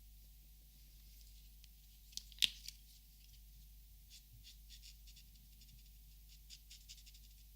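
Quiet close-up handling of markers and paper: a sharp click about two and a half seconds in, then a run of light, quick scratchy strokes several times a second.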